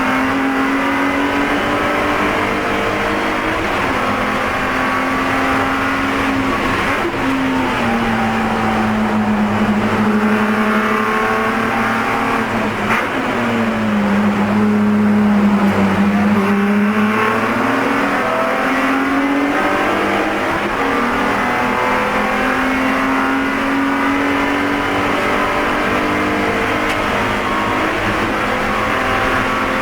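BMW E46 race car's inline-six running hard at high revs under racing load. The engine note dips lower in two steps about a third of the way in and again near the middle, is loudest just after, then climbs back up.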